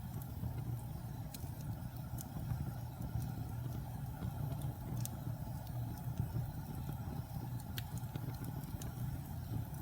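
Fire burning in a fireplace: a steady low rumble with scattered sharp crackles and pops every second or so.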